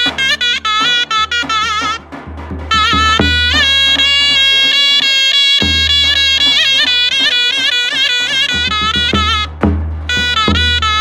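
Zurna playing a shrill, ornamented folk melody over drum beats, the typical zurna-and-drum wedding music. The melody breaks off briefly about two seconds in and again near the end.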